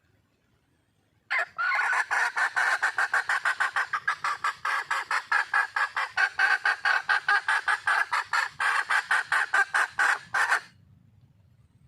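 Red junglefowl hen calling for a mate: a fast, even run of clucks, about five a second, that starts about a second in and cuts off abruptly near the end.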